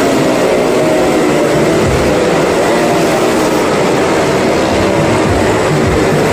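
Engines of small cars and a motorcycle running hard as they circle the vertical wooden wall of a Well of Death drum, a loud, continuous mechanical drone.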